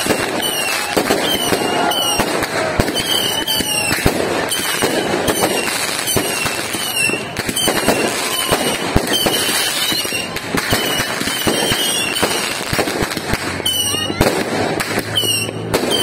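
Aerial fireworks going off without pause: a dense run of bangs and crackling, with short falling whistles coming again and again.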